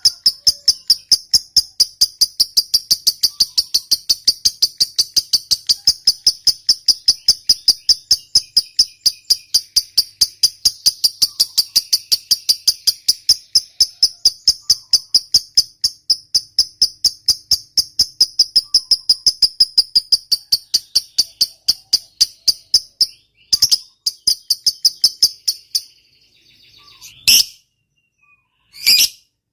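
A lovebird's long 'ngekek' chatter: an unbroken run of rapid, high, evenly spaced chirps that goes on for over twenty seconds, then breaks off into a few short separate bursts near the end.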